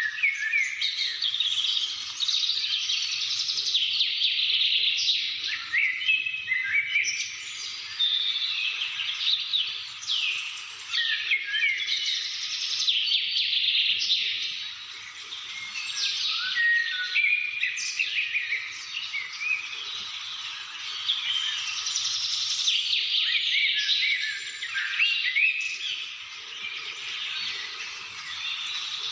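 Many birds chirping and calling at once: a dense chorus of rapid chirps and quick falling whistles, overlapping without a break.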